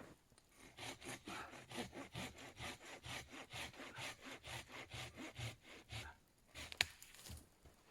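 Hand saw cutting through wood with rapid, even back-and-forth strokes for about five and a half seconds. The sawing stops, and a single sharp click follows near the end.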